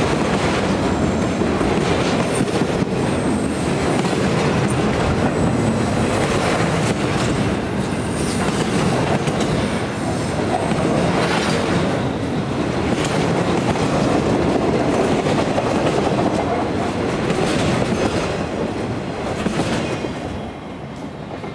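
Railcars of a passing freight-style circus train rolling by at close range: a steady rush of wheel-on-rail noise with occasional clanks. It falls away near the end as the last car passes.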